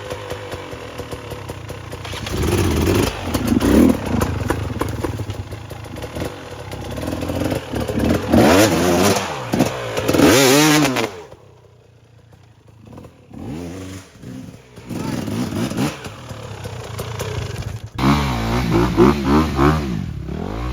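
Off-road motorcycle engine revving up and down repeatedly under load. The revs fall away sharply about halfway through, then build again.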